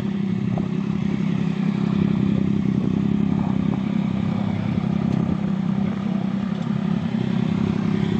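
A vehicle engine running at a steady, unchanging speed: a constant low hum.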